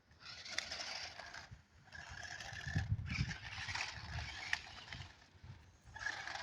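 A toy remote-control monster truck running in short spurts, its small electric motor and gears whining as the wheels scrape over sandy ground.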